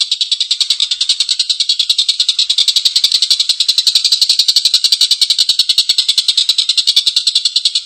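Tengkek buto (collared kingfisher) giving a long, harsh chattering call: a rapid, unbroken string of rough notes, about ten a second.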